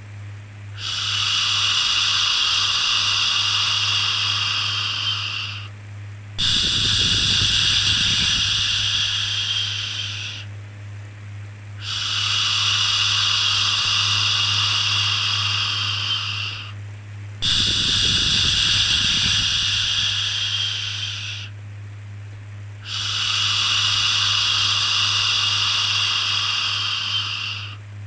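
Long 'shhh' shushing sounds used to soothe a baby, each held for about five seconds and repeated five times with short breaks between them. A steady low hum runs underneath.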